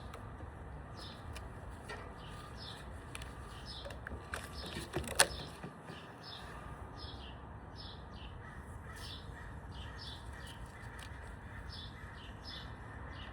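Small birds chirping, short high chirps repeating about once or twice a second. A single sharp click sounds about five seconds in.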